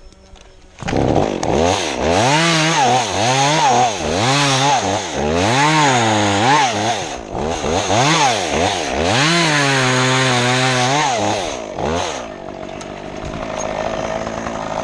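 Stihl chainsaw starting up about a second in and cutting cedar limbs, its engine revving up and down about once a second and dropping to a lower, steadier pitch under load in the cut. Near the end it falls back to a quieter, steadier running sound.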